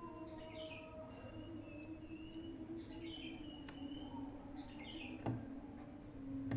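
A small caged bird chirping in short clusters of high notes every couple of seconds, over a steady low hum, with one sharp click about five seconds in.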